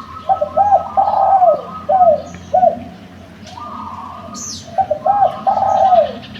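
Spotted dove (derkuku) cooing: two phrases of several short, arched coos, the second starting about five seconds in. Faint chirps of other birds in the background.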